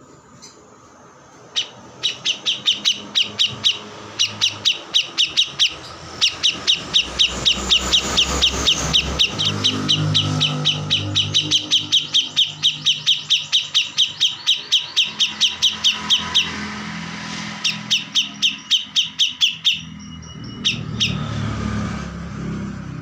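Kores bird singing in full voice: long phrases of rapid, sharp, repeated chirps, about seven a second, with brief breaks, ending with a short whistle. A low vehicle engine rumble runs underneath from about seven seconds in.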